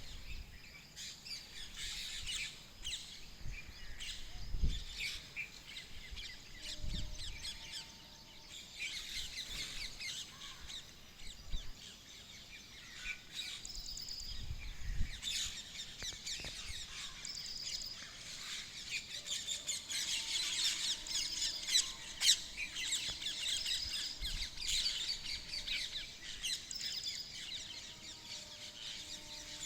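Many birds chirping and calling together in a busy chorus of short high chirps and trills, fullest in the second half. A few low thuds from wind or handling on the microphone come through in the first half.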